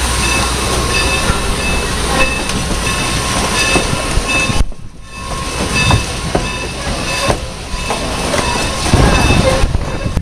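A railroad train running along the track amid heavy wind rumble on the microphone. The sound drops away sharply for a moment about halfway through, then comes back.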